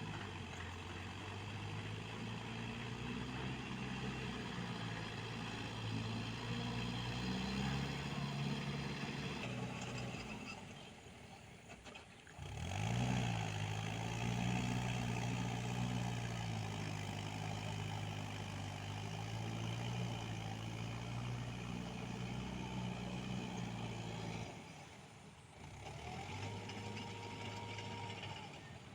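Mahindra Yuvo 575 tractor's diesel engine running steadily as it pulls a rotavator through a muddy field. The engine sound drops away twice and comes back, the first time with a rising rev.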